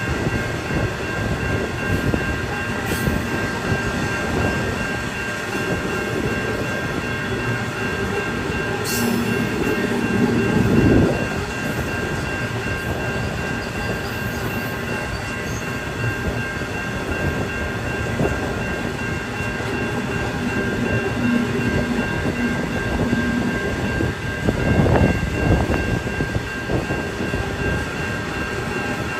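Wagons of a loaded iron ore train rolling past, a continuous rumble of steel wheels on rail with steady high ringing tones above it. The rumble swells twice, about eleven seconds in and again near the end.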